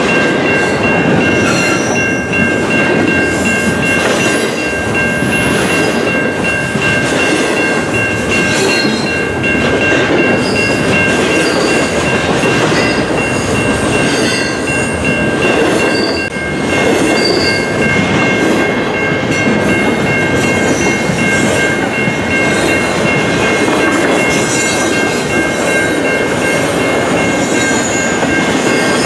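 Double-stack intermodal well cars rolling past close by: a steady rumble and clatter of steel wheels on rail, with a steady high whine over it.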